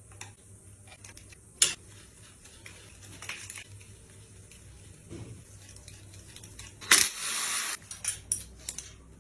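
Metal tools and engine parts clinking and knocking during diesel engine work, with a loud rush of hissing noise lasting just under a second near the end.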